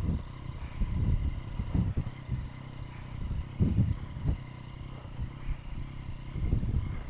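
Yamaha MT-09's three-cylinder engine running at low revs through an Akrapovic carbon full exhaust, with a steady low hum and irregular louder surges as the bike moves slowly over rough ground.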